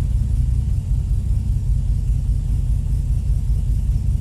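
Holden VK Commodore's 202 straight-six engine running with a steady low rumble.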